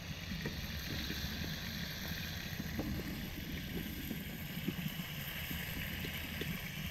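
Chicken frying in a pan of hot oil over a wood fire: a steady sizzle with small scattered pops. A low rumble of wind on the microphone lies under it.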